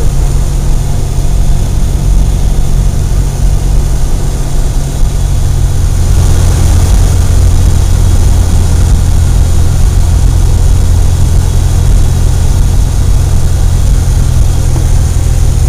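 Cessna 172's piston engine and propeller droning steadily inside the cabin, the low drone growing a little fuller about five seconds in.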